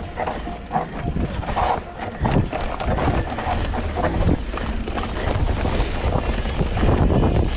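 Specialized Stumpjumper Evo mountain bike descending a downhill trail at speed: tyres rumbling over dirt and rocks, with the bike clattering over bumps and wind buffeting the microphone.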